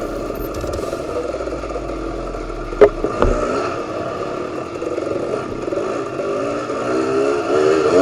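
Enduro motorcycle engine running at low revs with an uneven, wavering note, a single sharp knock about three seconds in, and the revs climbing near the end.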